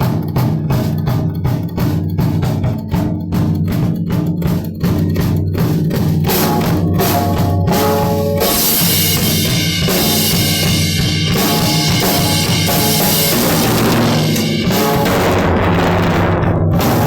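Drum kit played solo: separate bass drum and snare strikes at first, about three a second, then from about eight seconds in a dense, continuous wash of fast drumming with cymbals ringing. Loud throughout.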